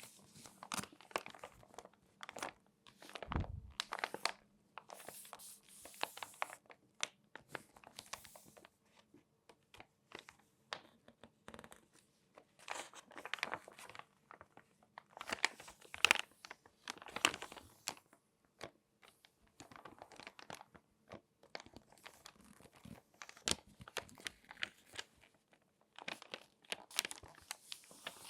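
Crinkly glossy magazine pages being folded and crumpled by hand close to the microphone: irregular crackling and rustling in quick bursts with short pauses, loudest about two-thirds of the way in.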